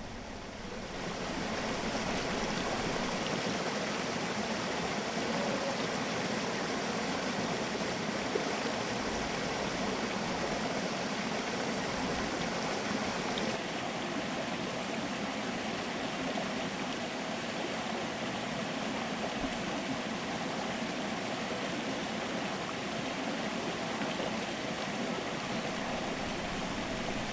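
Stream water running steadily, an even rushing that dips slightly in level about halfway through.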